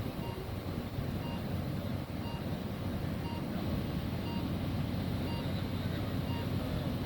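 Lorry diesel engine running steadily, with a short beep repeating about once a second, typical of a reversing alarm while shunting.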